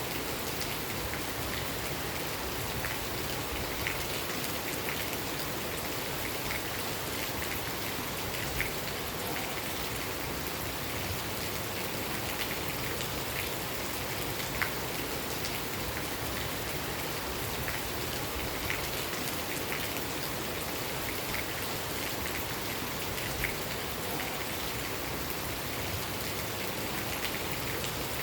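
Steady rain falling, an even hiss with scattered louder drips ticking every second or two.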